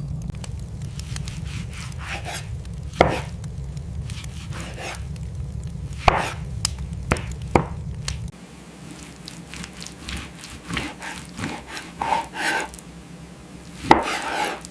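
Scattered sharp knocks and scrapes, with a low steady hum underneath that cuts off suddenly about eight seconds in.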